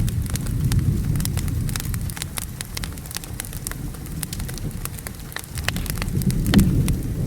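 Wood fire crackling, with many sharp irregular pops, over the low rumble of thunder that fades about five seconds in and swells again near the end, with rain hissing underneath.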